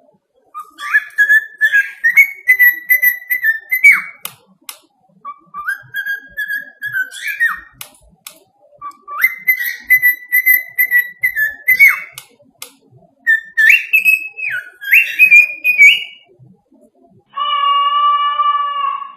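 Parrot whistling a tune in four phrases, its pitch stepping up and down between notes, with faint clicks between phrases. Near the end a single steady held note with overtones sounds for about two seconds.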